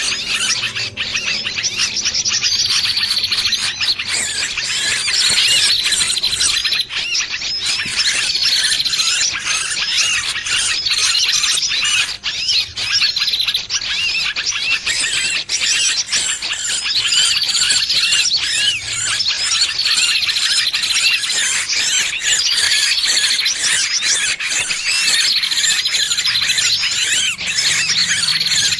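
Distress squealing of a small trapped bird, played as a bird lure: a continuous shrill, chattering stream of squeals with a falling note repeating every two to three seconds.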